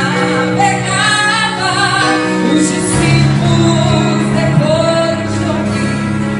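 A woman singing a gospel song in Portuguese over instrumental backing of long held chords.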